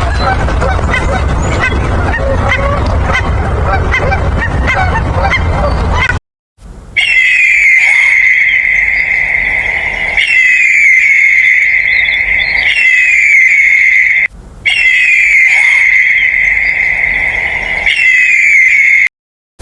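A dense run of many short animal calls, then after a brief cut a loud, steady high-pitched shrilling with a falling call repeating every few seconds.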